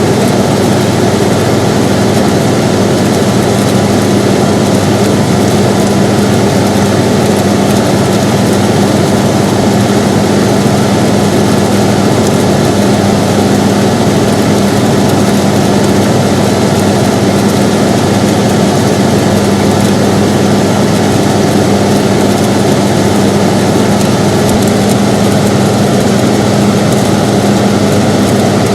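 Air conditioner running steadily: an even rushing noise with a constant low hum.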